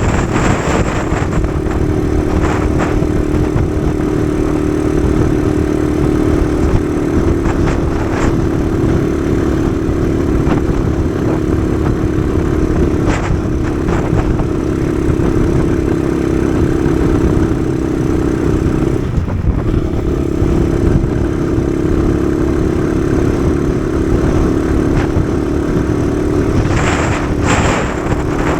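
Kawasaki KSR110's small single-cylinder four-stroke engine running steadily under way, over heavy wind rumble on the microphone. The engine note dips briefly about nineteen seconds in, and a few short knocks come through.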